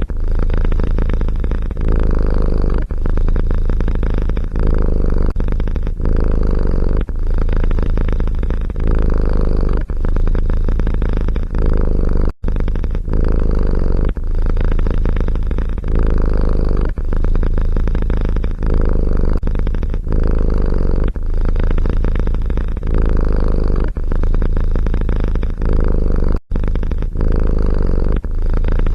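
Domestic cat purring, loud and steady, rising and falling about once a second with each breath in and out. Twice it cuts out for an instant.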